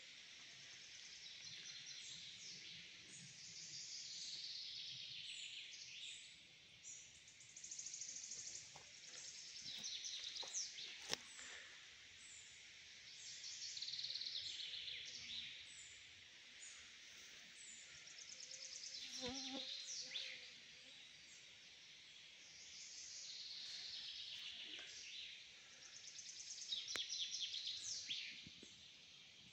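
Songbirds singing: high trilled song phrases of about two seconds each, repeating every few seconds, with a sharp click about eleven seconds in.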